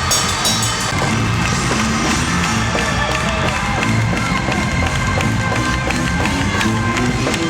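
Live gospel music played by a band with a drum kit, with the crowd's noise underneath.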